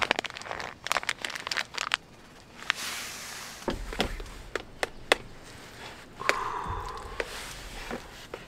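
Cookware and food being handled: a scatter of sharp clicks and taps with some crinkling rustle.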